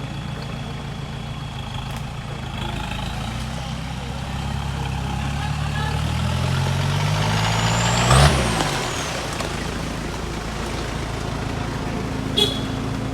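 An off-road vehicle's engine revs up and passes close by about eight seconds in, its pitch climbing as it comes and dropping as it goes past. A short sharp knock follows near the end.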